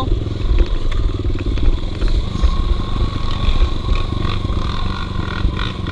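Dirt bike engine running with uneven throttle, its level surging up and down, with clattering knocks from the bike on rough ground.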